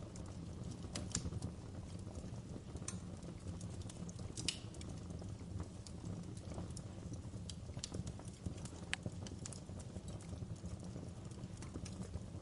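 Wood fire crackling in a fireplace: a steady low rumble of burning with irregular sharp pops and snaps of the logs, one louder snap about four and a half seconds in.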